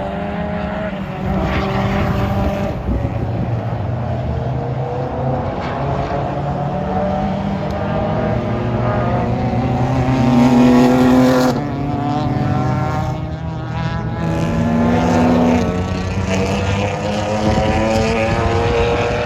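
Race car engine on track pulling hard, its pitch climbing steadily over several seconds at a time. The sound breaks off sharply about eleven and a half seconds in, then climbs again.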